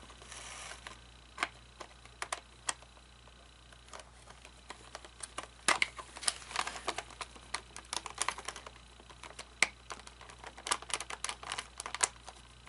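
Irregular clicks and knocks of plastic parts being handled as a front cover plate is fitted onto an animatronic figure, sparse at first and coming thicker from about halfway, over a faint steady low hum.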